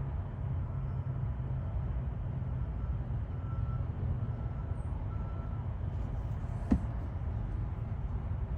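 Electronic key-cutting machine running its calibration cycle: a steady low motor hum with a faint, intermittent high whine and one sharp click about two-thirds of the way through.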